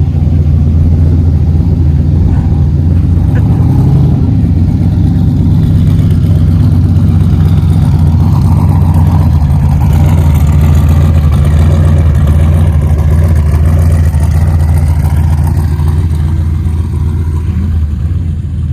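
Car engines running with a steady low rumble; from about ten seconds in a higher engine note swells and changes pitch for several seconds, then fades.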